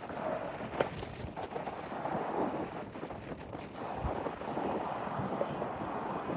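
Gusty wind blowing across the microphone as a steady, uneven rush, with a few sharp clicks about a second in.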